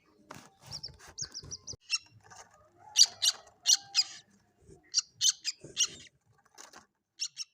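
Common moorhen chicks calling: short, high-pitched peeping calls repeated at an irregular pace, with a quick run of five notes about a second in.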